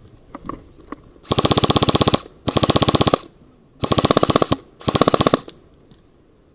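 Airsoft gun firing four short bursts on full auto, each a rapid, even rattle of shots lasting under a second.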